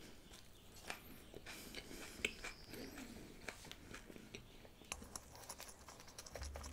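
A person chewing food close to a microphone: faint, scattered mouth clicks and smacks.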